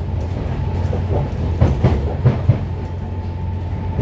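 Siemens C651 MRT train running, heard from inside the carriage: a steady low rumble and hum, with a few sharp wheel clacks about one and a half to two and a half seconds in.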